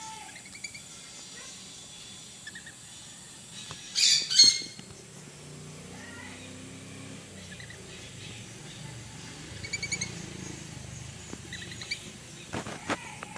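Birds chirping in short high twitters throughout, with a loud harsh squawk about four seconds in and a few sharp calls near the end.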